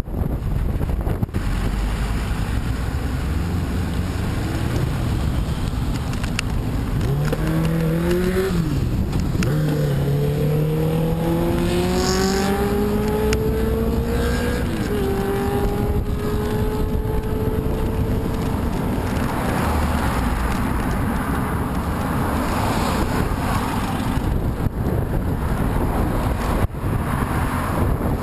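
Wind buffeting the microphone while a motor vehicle's engine accelerates past, its pitch rising, dropping at a gear change about nine seconds in, rising again, then levelling off at another shift about fifteen seconds in.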